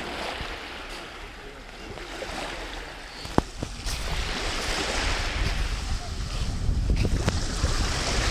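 Sea waves washing in, with wind buffeting the microphone as a low rumble that grows louder about halfway through. A sharp click a little before the middle, and a couple of fainter ones near the end.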